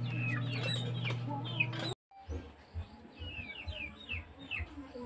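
Birds chirping: repeated short, high calls that fall in pitch. A steady low hum runs under them for about the first two seconds, and the sound drops out briefly where it cuts off about two seconds in.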